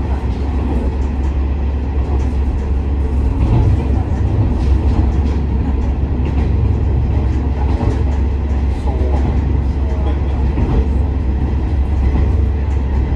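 Inside a KiHa 47 diesel railcar under way: a steady low diesel engine drone mixed with wheel-on-rail running noise, with faint scattered clicks from the track.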